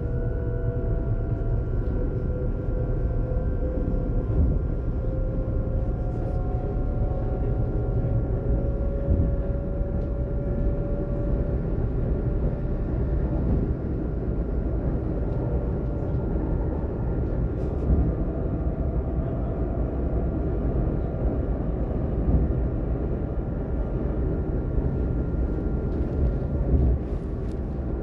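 Class ET 422 electric multiple unit running along the line: a steady rumble with a traction motor whine whose pitch rises slowly over the first dozen seconds, and a few short knocks.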